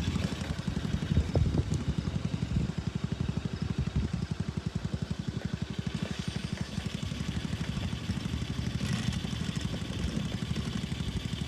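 Ride-on lawn mower engine running steadily under way, an even, rapid low putter that is super quiet.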